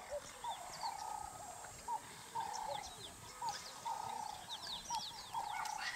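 Birds calling: one bird repeats a call over and over, a short note and then a longer one, roughly once a second, while others give quick high chirps.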